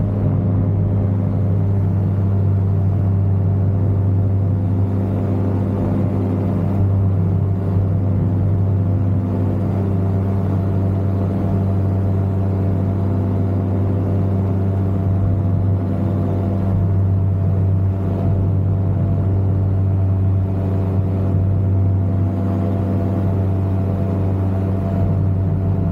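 Ultralight aircraft engine running steadily at a constant setting: an even, unbroken low drone with a stack of overtones above it.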